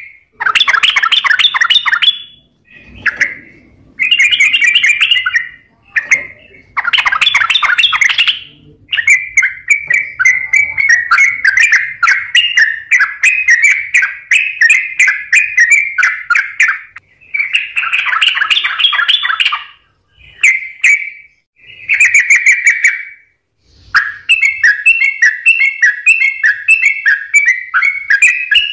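Yellow-vented bulbul (trucukan) in full, persistent song: loud bursts of rapid, bubbling chattering notes, each lasting one to a few seconds, with short pauses between them.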